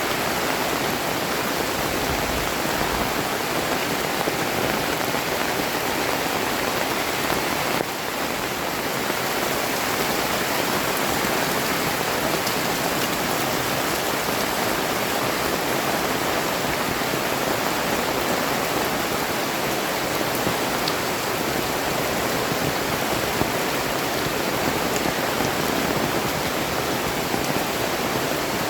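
Heavy rain falling steadily, a dense even hiss of rain on the surroundings.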